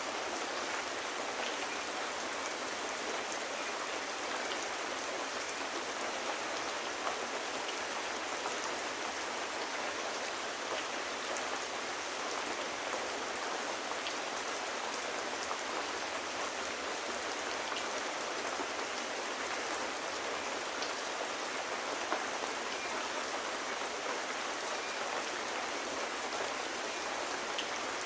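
Steady rain, an even hiss with scattered small ticks.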